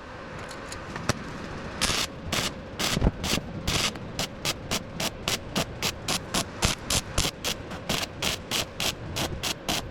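MIG welder stitch-welding a steel exhaust pipe: short crackling bursts of the arc, about three a second, as the seam is laid in quick pulses.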